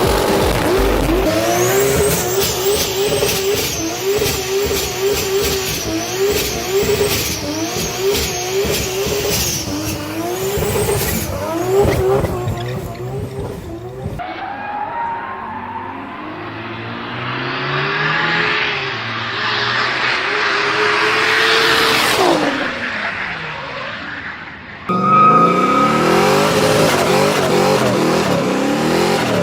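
Modified car engines revving hard in a string of short clips, the pitch rising and falling with the throttle. About two-thirds of the way through, one car accelerates and sweeps past, its pitch dropping sharply.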